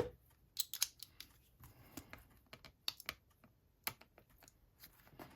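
Scattered light clicks and taps of a tiny screwdriver working a two-piece metal screw post that is being fastened through a journal's punched hole.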